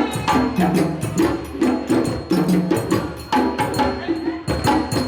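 Percussion ensemble drumming a fast, steady rhythm of sharp hand-drum strikes over low pitched drum tones that return about once a second.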